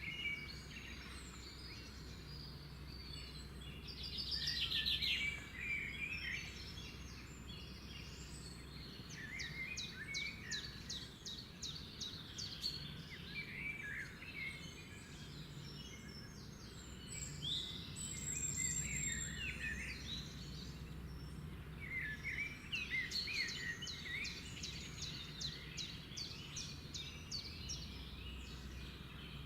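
Several birds chirping and calling, with a rapid trill about four seconds in, over a steady low background rumble.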